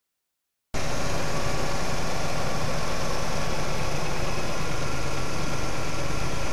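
Silence for the first moment, then a 1999 Ford Taurus's six-cylinder engine idling steadily, heard close up in the open engine bay.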